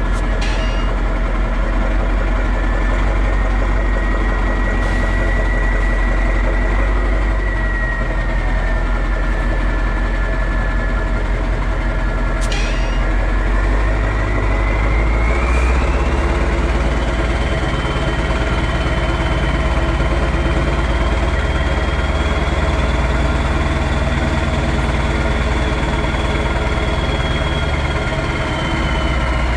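Straight-piped Mack E9 V8 diesel truck engine idling steadily, with a high whine that rises in pitch about halfway through as the engine note shifts.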